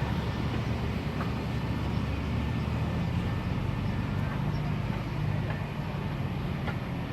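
A car engine running with a steady low rumble as the car rolls slowly past close by.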